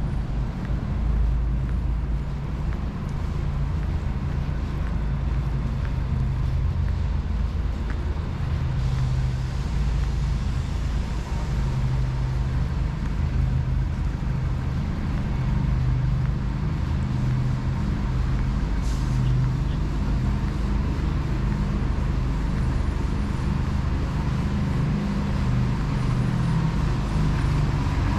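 Steady low engine rumble of city street traffic, with one brief hiss about two-thirds of the way through.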